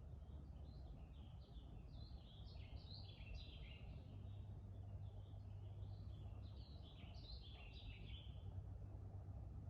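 A songbird singing two long phrases of quick, jumbled high chirping notes, one in the first half and one in the second, over a faint steady low rumble of forest ambience.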